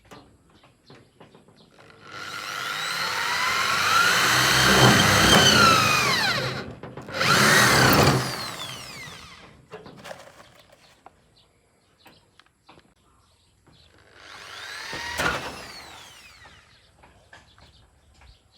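Handheld electric power tool run in three bursts: a long one, a short one, then another after a pause, its motor whine sagging and recovering in pitch as it works against the material.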